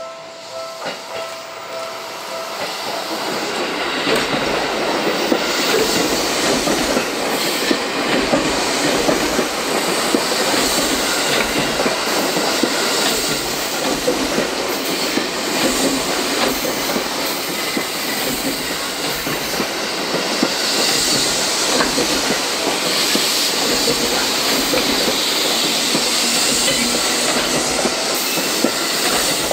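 A Seibu Railway 9000-series electric train runs past close by, the wheels clattering over the rail joints with some wheel squeal. The sound builds over the first few seconds and then holds steady as the cars pass. A level-crossing alarm's steady tones are heard at the start and are lost under the train about two seconds in.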